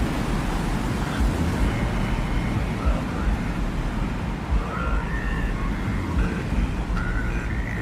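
Steady desert wind ambience with a deep, gusting low rumble, and faint short high tones now and then.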